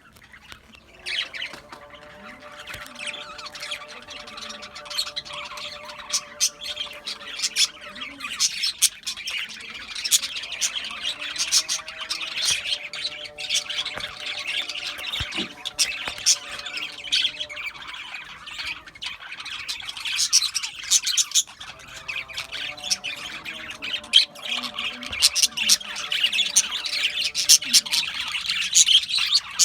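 Budgerigars chattering: a dense, continuous stream of rapid chirps, squeaks and squawks.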